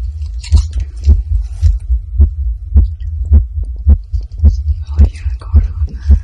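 Amplified human heartbeat picked up close to the chest, beating fast and regularly at about two beats a second, with faint rustling over it.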